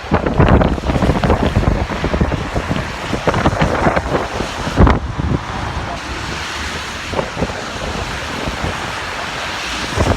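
Heavy, gusty wind buffeting the microphone over a steady rushing hiss, with one sharp thump just under five seconds in; the gusts ease to a steadier rush in the second half.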